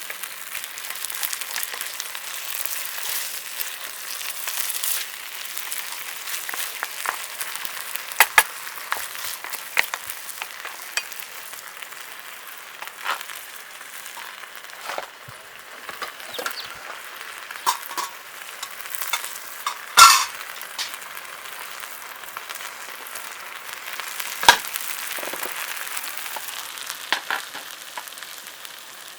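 Food sizzling in a pan, a steady hiss broken by a handful of sharp clicks or knocks, the loudest about two-thirds of the way through.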